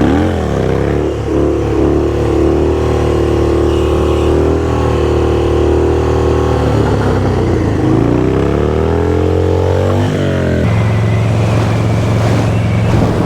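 A 600cc sport bike's engine running under way. The revs rise at the start and hold steady for several seconds, then fall and climb again between about seven and ten seconds in, then settle at a steady speed.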